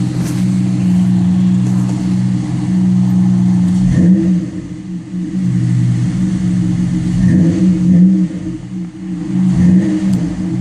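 The 3.4-litre V6 of a 2005 Pontiac Aztek running through its custom dual exhaust, a steady low drone that swells to a peak and drops back twice, about four and eight seconds in.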